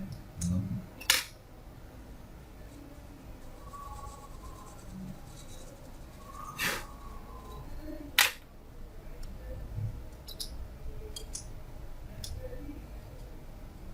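Scattered clicks and taps of small laptop parts and tools being handled during a fan cleaning and repair. There are sharp clicks about a second in, then two more in the middle of the stretch, and lighter ticks after them.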